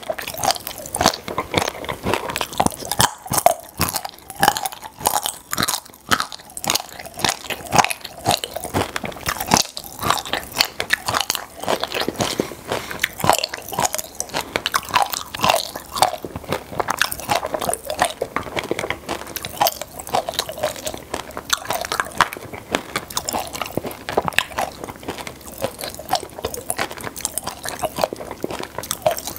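Close-miked chewing and crunching of popping-candy chocolate, with a dense run of small sharp crackles.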